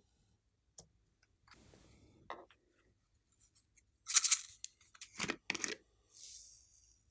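A few short crackling, rustling bursts from hands handling slime-making materials, loudest about four seconds in and again around five seconds, with a softer rustle near the end.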